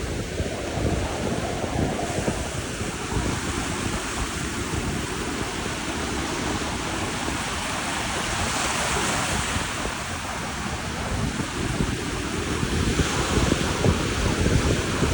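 Wind buffeting the microphone over a steady rush of waves and water, with a gust-like swell about halfway through and another near the end.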